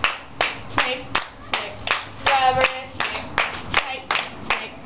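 Steady rhythmic hand clapping, about two and a half claps a second, keeping the beat, with a short sung syllable from a voice a little past halfway.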